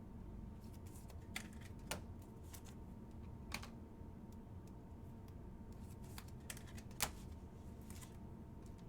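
Trading cards being handled and flipped through a stack, giving scattered light clicks and snaps at irregular intervals over a faint steady hum.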